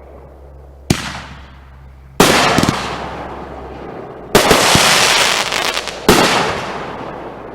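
Consumer fireworks going off: four loud bangs, about a second in, then roughly every two seconds, the middle bursts trailing off in a dense crackle and hiss.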